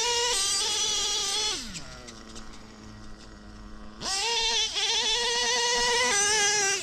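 Ultimate M5 .21 nitro engine (Novarossi P5-based) in a Traxxas Revo running at high revs, then falling back to a low idle-like note for about two seconds. About four seconds in it revs sharply up again and holds high until near the end, where it drops off.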